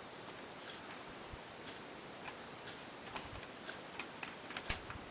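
Faint, irregular light clicks and ticks of small metal parts as the wheel nut on an RC car's hex hub is loosened a little by hand tool.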